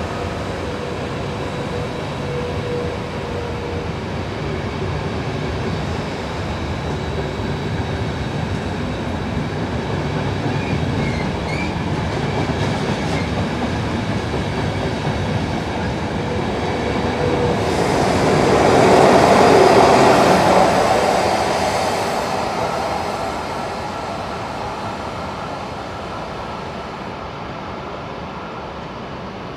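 A train passing on the railway, its wheels running on the rails, getting louder to a peak about two-thirds of the way in and then fading away.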